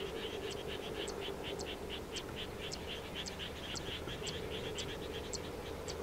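Frogs calling in a steady chorus of quick, even pulses, about five a second, with a thinner high tick repeating about twice a second over a low steady hum.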